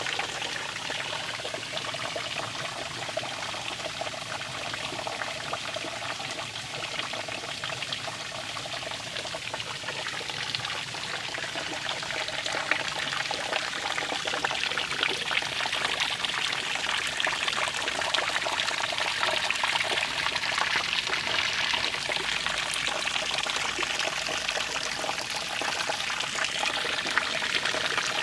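Running water splashing and trickling steadily, getting a little louder about halfway through.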